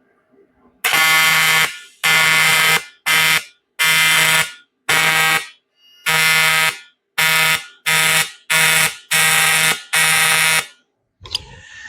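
Electric welding arc buzzing in about ten short bursts of half a second to a second each: tack welds being stitched along a sheet-metal seam.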